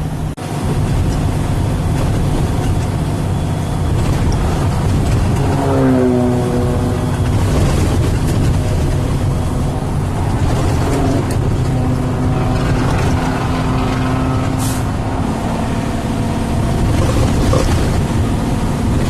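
Truck engine running, heard from inside the cab. About six seconds in the engine note falls in pitch, and a short hiss sounds about three-quarters of the way through.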